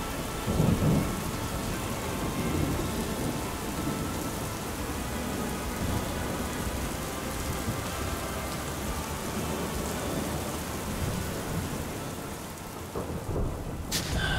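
Heavy rain pouring steadily in a thunderstorm, with a low rumble of thunder about half a second in. The rain noise drops away near the end, followed by a few sharp clicks.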